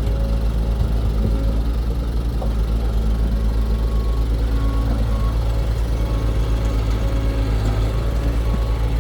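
Heavy diesel engine of a construction machine running steadily, with a deep, even pulsing and no rise or fall in engine speed.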